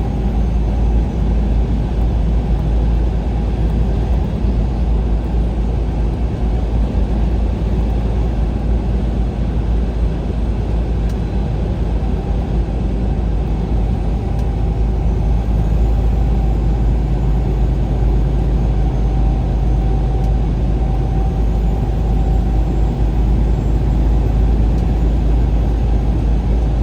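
Vehicle driving at road speed: a steady drone of engine and tyre noise with a deep, constant rumble.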